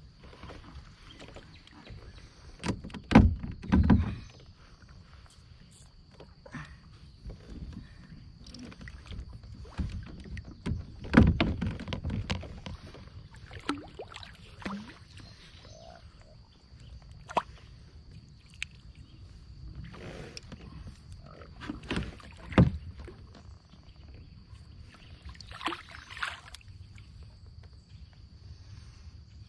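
Knocks and bumps against a fishing kayak's hull, with light water splashing, as a hooked catfish is fought and brought in. Scattered sharp knocks throughout, the loudest about three, four, eleven and twenty-two seconds in.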